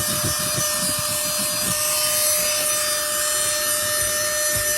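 Cordless handheld car vacuum running steadily with a constant whine and rushing air, its nozzle scraping and rubbing over the car carpet as it picks up sand.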